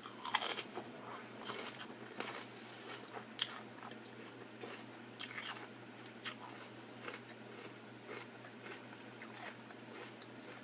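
A person eating close to the microphone: a louder crunchy bite in the first second, then open-mouthed chewing with scattered crisp crunches.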